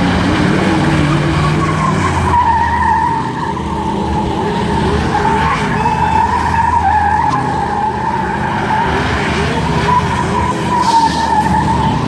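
A car's tires squealing on pavement with the engine running underneath: a steady, wavering screech held for many seconds, as in a burnout.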